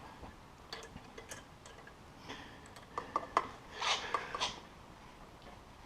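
Snowmobile exhaust springs and a metal tool clinking and scraping as a tight spring is worked off. It comes as scattered light clicks, with a short run of rubbing scrapes in the middle.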